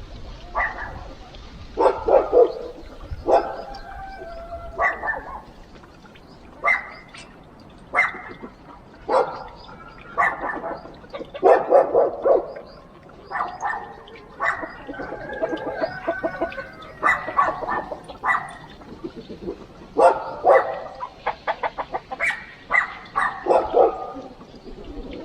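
A dog barking repeatedly, a bark every second or so, with a quick run of short barks near the end.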